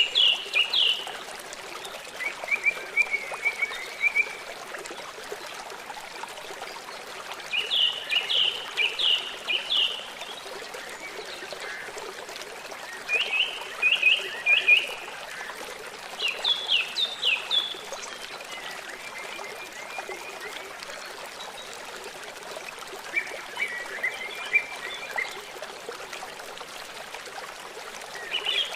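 Small stream trickling steadily while a songbird sings short phrases of several quick, falling, high notes, repeated every few seconds.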